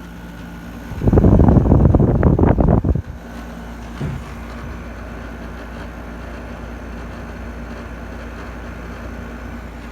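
Goldstar R-22 air conditioner running with a steady hum. About a second in, a loud rushing noise lasts roughly two seconds and drowns it out, then the steady hum returns.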